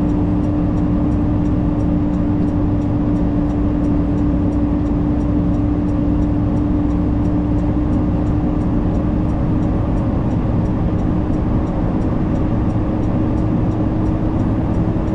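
Semi truck running on the interstate, heard inside the cab: a steady engine and road drone with a constant hum through it.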